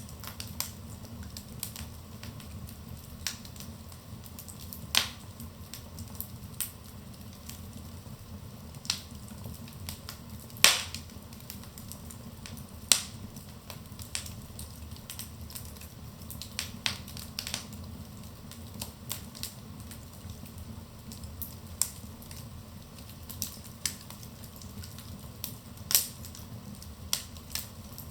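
Wood fire burning in a fireplace: a low steady rumble of flame under irregular crackles and pops of the logs, several of them sharp and loud.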